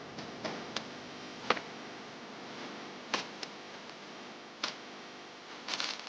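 Scattered light clicks and taps, about eight at irregular intervals, over a steady background hiss; the sharpest comes about a second and a half in and a quick cluster comes near the end.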